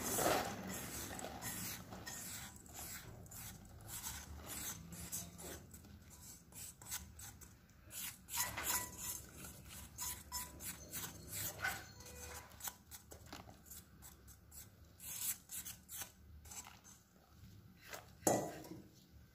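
Irregular clicks and scrapes of a utensil working against a bowl or dish, with a few louder knocks along the way.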